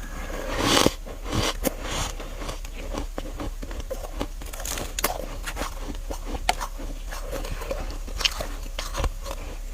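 A person biting into freezer frost close to the microphone: one loud crunching bite just under a second in, then scattered small crunches and crackles as the frost is chewed.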